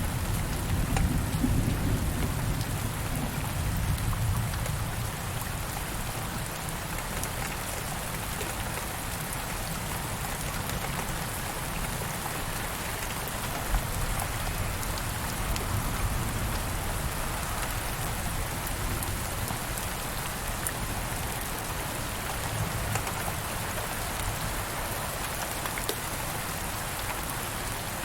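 Steady heavy rain falling on surfaces, with a low rumble of distant thunder in the first few seconds that dies away.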